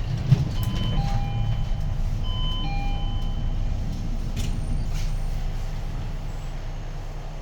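Inside the cabin of a Hyundai Green City city bus under way, its D6GB six-cylinder diesel engine running with a steady low rumble that eases off slightly near the end. A two-note electronic chime sounds twice in the first few seconds, with a couple of light clicks a little later.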